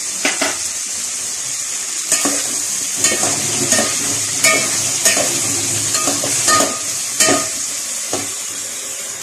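Chicken pieces sizzling as they fry in oil in an aluminium pot, stirred with a utensil that knocks and scrapes against the pot a dozen or so times at an uneven pace.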